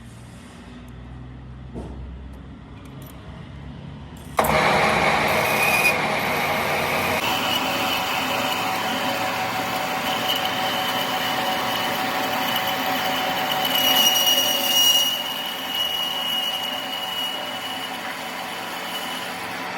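A workshop machine starts abruptly about four seconds in and runs steadily and loudly with a high whine, after a low quiet rumble.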